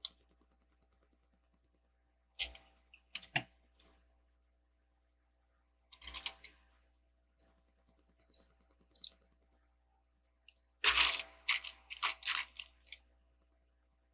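Plastic Lego bricks and parts clicking and clattering as they are handled and fitted together, in scattered bursts of small clicks with the busiest, loudest run a little before the end.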